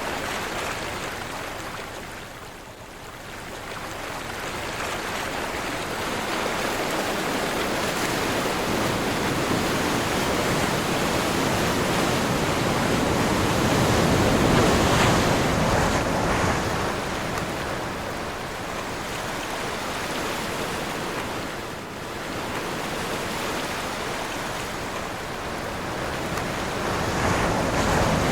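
Sea waves breaking and washing on a shore in strong wind, the surf swelling and ebbing: it drops off a few seconds in, builds to its loudest around the middle, eases, and builds again near the end.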